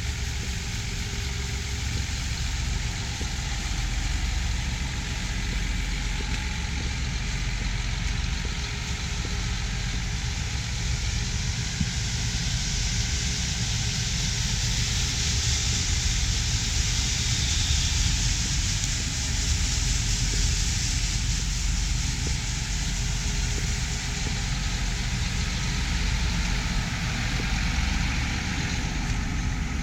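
Heavy farm machinery running steadily, a low engine rumble with a broad hiss that swells around the middle.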